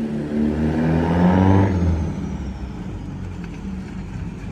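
Turbocharged Audi 1.8T four-cylinder engine pulling under throttle, revs rising for about a second and a half with a faint high whistle, then dropping off as the throttle is lifted and settling to lower revs. This is a test drive of a temporary differential-mount repair.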